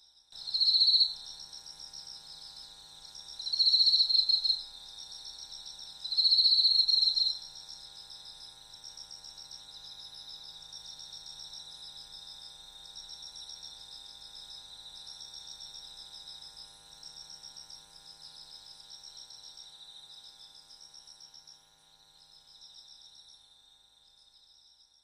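Insects chirping in steady pulsed trills, with three louder, high buzzing calls in the first seven seconds, over a faint steady hum.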